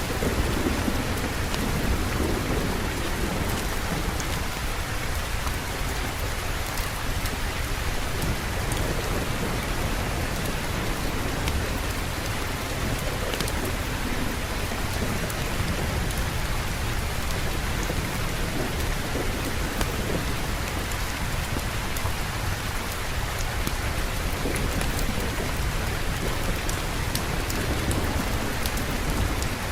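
Steady rain pouring, with a low rumble of thunder underneath and a few faint clicks.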